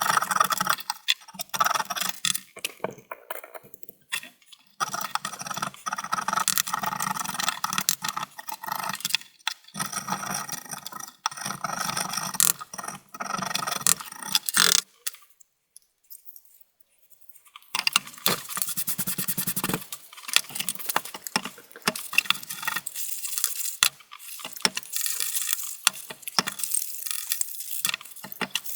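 Sped-up time-lapse sound of a computer CPU fan being scraped clean of thick caked-on dust: rapid, dense scraping and clicking, with a short break about halfway through.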